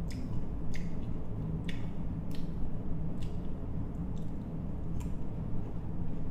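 Close-up chewing of crisp green mango slices: about eight short, sharp crunches, irregularly spaced, over a steady low hum.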